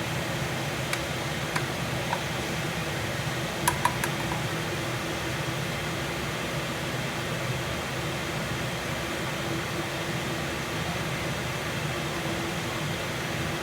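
Kitchen exhaust fan running with a steady, noisy whir and hum. A few light clicks sound between about one and four seconds in.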